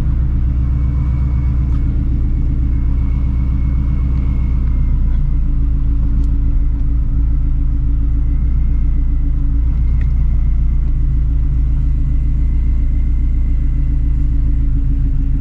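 Procharged Shelby GT350's 5.2-litre flat-plane-crank V8 idling steadily while parked.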